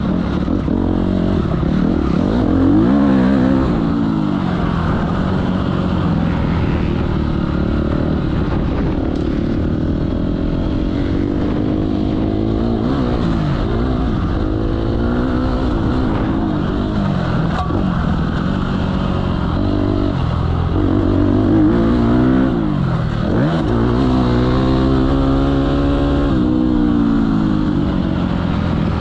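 Motocross bikes riding the track, their engines revving up and dropping back over and over as they accelerate and shift. Several bikes overlap, so rising and falling pitches cross each other with no pause.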